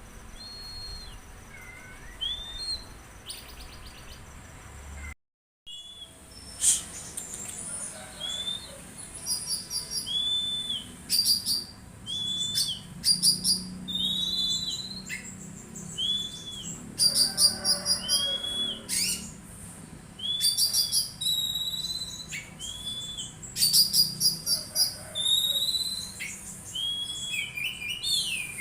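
Songbird singing: a short arched whistle note repeated about once a second, with bursts of rapid higher chirps between them. The sound cuts out completely for a moment about five seconds in.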